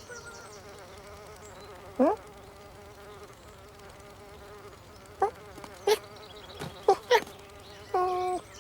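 Cartoon fly buzzing steadily. Short, louder rising squeaks cut in about two seconds in and several times in the second half.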